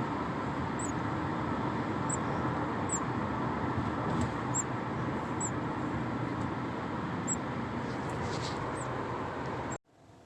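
Steady road noise inside a moving car, with faint, short, high cheeps from baby birds in a box, about one a second. The sound cuts off suddenly near the end.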